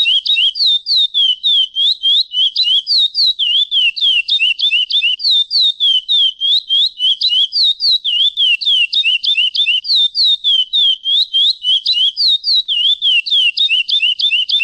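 Chestnut-bellied seed finch (curió) singing a fast, unbroken run of short sliding whistled notes, about five or six a second, that stops abruptly at the very end.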